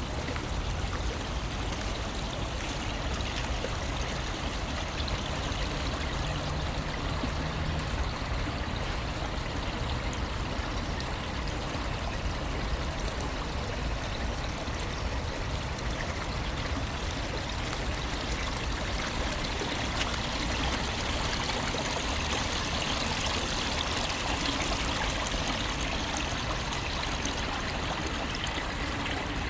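Steady rush of flowing water, like a stream, with the bright hiss growing stronger about two-thirds of the way through.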